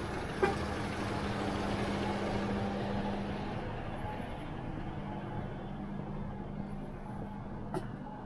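Street traffic: a motor vehicle's engine running with a steady low hum that fades toward the end. There is a sharp click about half a second in.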